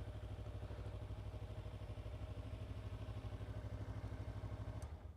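Kawasaki Ninja 300's parallel-twin engine idling steadily, then switched off and cutting out suddenly near the end.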